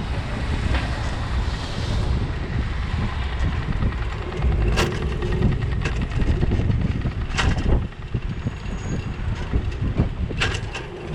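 Wind buffeting a bicycle-mounted action camera's microphone while riding, a steady low rumble, with three sharp knocks or rattles a few seconds apart.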